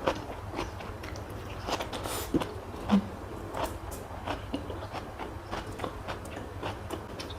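A person chewing food close to the microphone, with irregular soft mouth clicks and smacks several times a second. There is a short, low hum-like sound about three seconds in, over a steady low background hum.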